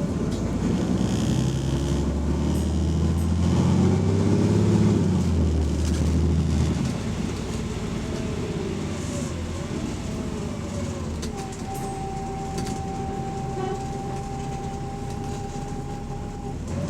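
Double-decker bus engine pulling away, rising in pitch and loudest around four to five seconds in, then dropping back to a quieter steady run about seven seconds in; a thin steady whine comes in about eleven seconds in. The bus has an exhaust leak, very loud from outside.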